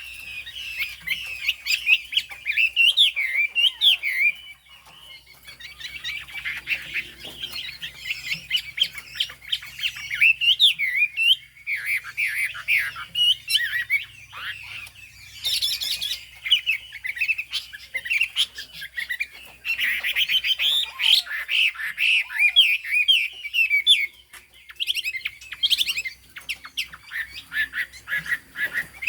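Chinese hwamei (họa mi) singing a long, rapid song of varied whistled notes, quick up-and-down glides and chirps. The song comes in long runs, with a short break about five seconds in and another near the end.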